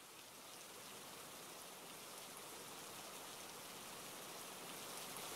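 Steady rain falling on a car, heard from inside, a fine patter of drops that slowly grows louder.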